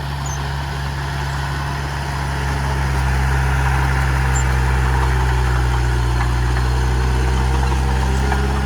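Heavy earthmoving machine's diesel engine running steadily at a low, even pitch, getting a little louder about three seconds in.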